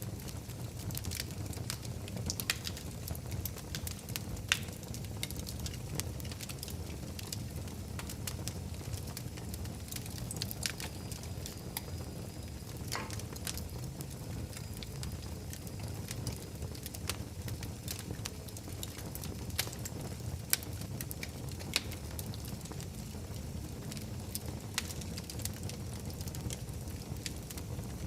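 Fire burning in a fireplace, crackling: irregular sharp pops and snaps over a steady low rumble of the flames.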